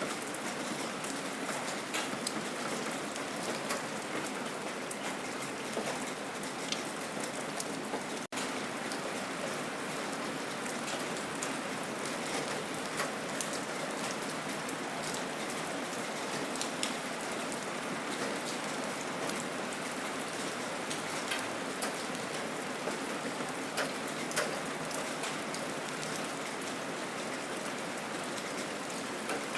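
Gentle rain falling steadily, a continuous patter with single drops ticking sharply here and there. The sound cuts out for an instant about a third of the way through.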